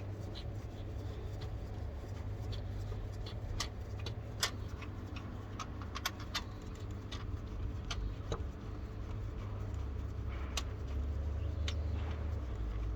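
Scattered light metallic clicks and clinks of hand tools and parts during work on the car, irregular and a second or so apart, over a steady low hum.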